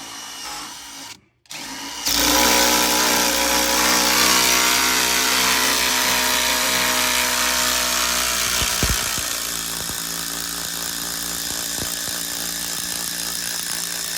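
A cordless power drill runs steadily under load for about twelve seconds, with a steady motor whine, after a brief start and stop. It eases slightly partway through and cuts off at the end.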